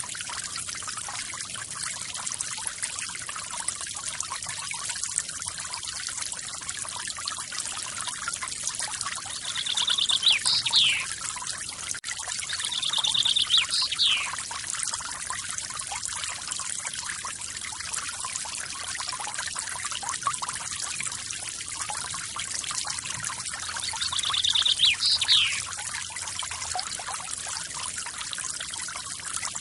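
Forest waterfall with water rushing and splashing steadily. A bird calls three times over it, each call a quick trill ending in a sharp falling note.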